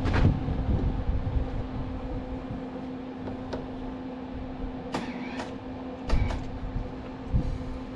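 Welding machine humming steadily, broken by several short sharp crackles or clicks, the loudest about six seconds in.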